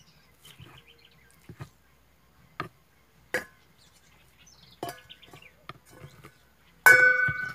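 Kitchen knife chopping sausage meat on a wooden cutting board: sharp knocks about a second apart. Near the end, a louder sudden strike that rings on briefly.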